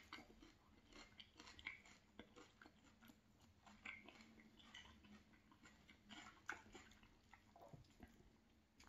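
Faint close-up chewing of a mouthful of crunchy salad (lettuce, cabbage, celery and carrot), with soft, scattered crunches and wet mouth clicks.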